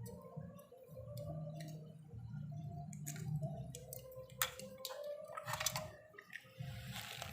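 Small clicks and scraping of hands and tools working on a CRT television's circuit board, over a low steady hum, with a short hiss near the end.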